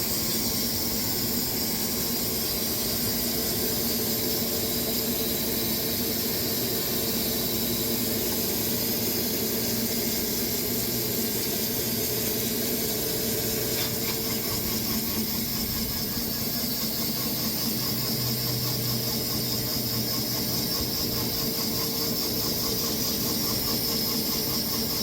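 Sawmill running steadily while sawing a Bastogne walnut log into slabs: a constant drone with a strong high hiss that does not let up.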